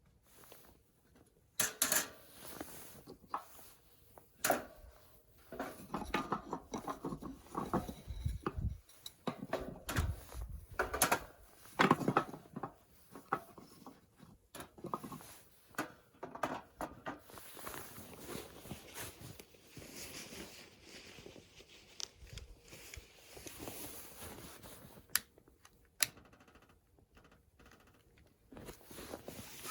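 Hands handling camping gear: irregular clicks, knocks and rustles, with the sharpest knocks about two seconds in and around ten to twelve seconds in.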